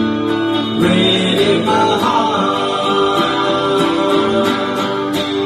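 Live music: guitar playing the closing bars of a slow song, with a sung voice holding a wavering note in the middle.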